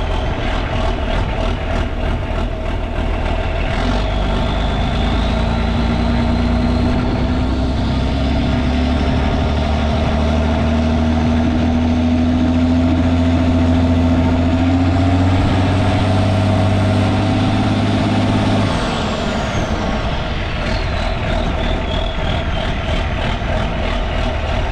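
John Deere 4520's turbocharged six-cylinder diesel running just after a cold start. It is brought up in revs about five seconds in, with a turbo whistle climbing, then throttled back near the end, the whistle falling away.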